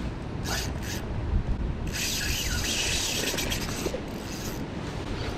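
Fishing reel ratcheting and rasping as line is worked on a hooked tarpon, loudest in a stretch through the middle, over a steady low rumble of wind and rushing water.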